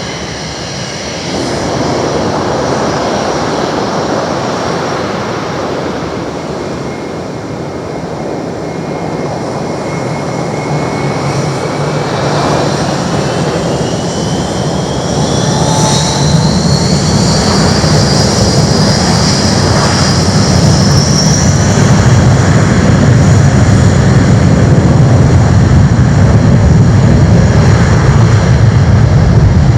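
Airbus A320's jet engines spooling up to takeoff thrust. A whine rises steadily in pitch from about a third of the way in, then a deep rumble builds and grows loudest near the end.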